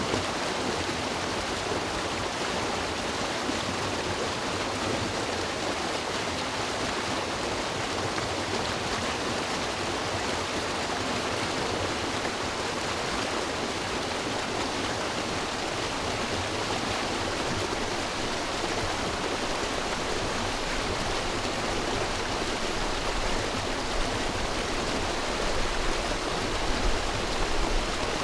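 River water rushing steadily, an even wash of noise. A low rumble joins in for the last few seconds.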